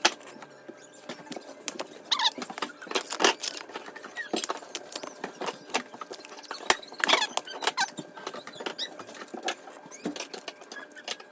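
Kitchen food-prep handling noise: a dense, irregular run of clicks and crackles, with a few short squeaky sounds about two seconds in and again around seven seconds.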